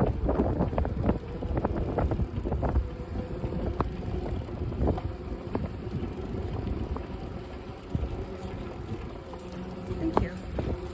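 Electric bicycle being ridden along a path: wind rumbling on the microphone with frequent clicks and rattles from the bike over the ground. A faint high insect buzz comes in near the end.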